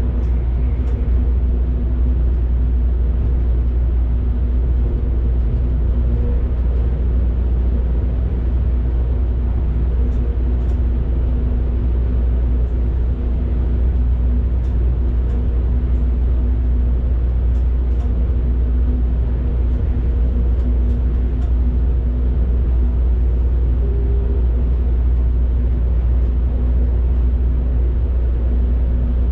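Steady low rumble and hum inside an electric train's driver's cab while it runs, with faint light ticks now and then.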